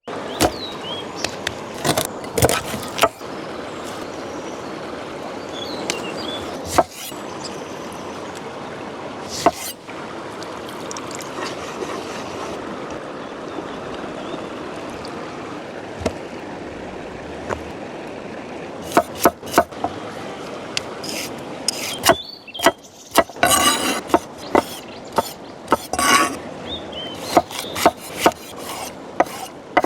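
Hands-on outdoor food preparation: scattered knocks, clicks and rubbing sounds of wood and utensils over a steady rushing background, growing into a rapid run of knocks in the last few seconds, with a few faint bird chirps.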